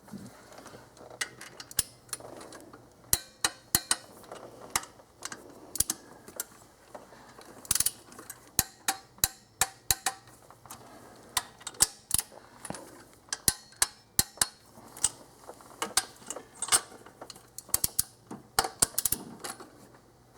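Ratcheting torque wrench clicking in short runs of sharp, irregular clicks as the mid intake manifold bolts of a Nissan VQ35DE V6 are tightened on a final pass to 21 foot-pounds.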